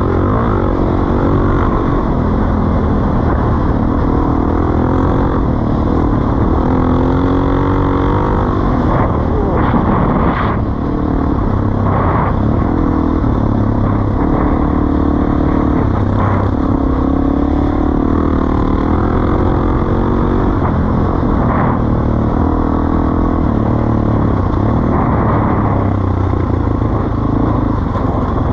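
Suzuki DR-Z400E's single-cylinder four-stroke engine running through a Pro Circuit T4 exhaust, its pitch rising and falling repeatedly through the revs.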